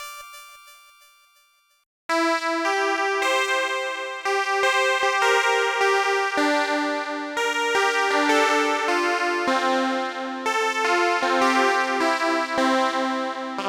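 Sequential Fourm 4-voice analog poly synthesizer: the previous preset's note fades away, and about two seconds in a new patch starts playing electric-piano-like chords, each note with a sharp, struck attack and the chords changing every second or so.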